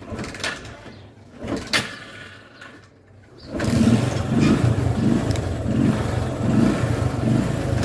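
A few light clicks and knocks, then about three and a half seconds in the single-cylinder engine of a Bajaj Discover motorcycle comes in loud and keeps running steadily with an uneven low pulsing.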